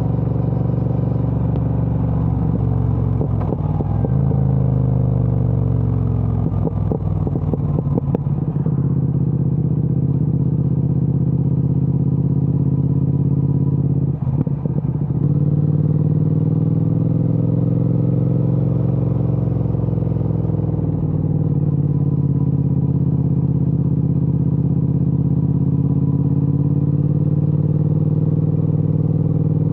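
Triumph Speed Twin 1200's parallel-twin engine through a Vance & Hines aftermarket exhaust, running under way: revs fall with some crackle in the first several seconds, a brief throttle break comes about halfway, then the revs rise and ease off again.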